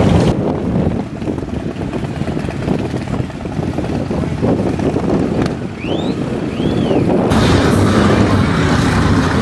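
Motorcycle engines rumbling with wind buffeting the microphone. The sound changes abruptly twice, and two short whistle-like chirps come a little past the middle.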